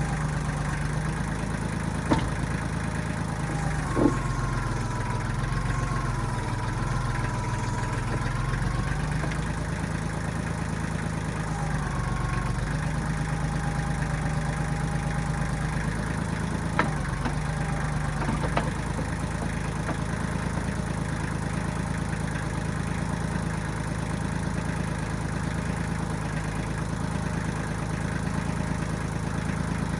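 Engine of a 1995 Kubota backhoe running steadily at work. Its pitch sags for about five seconds from around four seconds in, with a wavering higher whine over it. A few sharp clanks come through, two early on and two in the middle.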